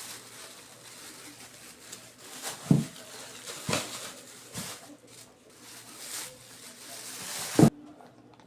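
A few sharp knocks and clatters with rustling between them over a faint low steady hum. The loudest knock comes near the end, and the sound then cuts off abruptly.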